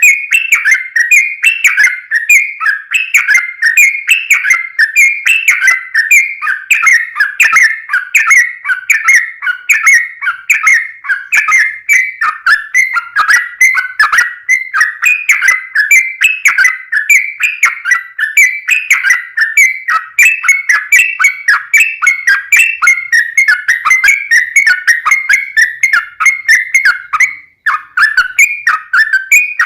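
Yellow-vented bulbul singing a long, unbroken run of rapid, bubbly whistled notes, several notes a second with no pause.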